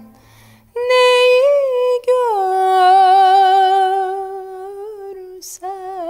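A woman singing alone without accompaniment, holding long notes with vibrato: a short rise, a step down to one long held note, then a quick breath and a new note near the end.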